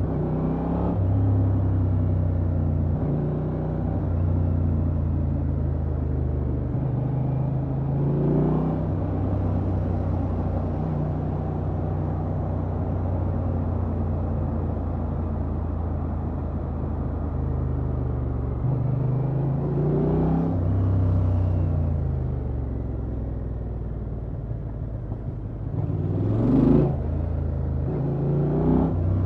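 Honda XL750 Transalp's parallel-twin engine running through its stock exhaust while riding, a steady low note that steps between levels, with three brief rises in revs: about a third of the way in, about two-thirds in, and a louder one near the end.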